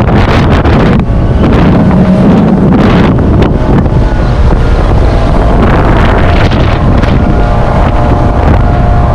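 Wind buffeting the microphone aboard a moving motorboat, a loud, steady roar with the boat's engine and water noise underneath.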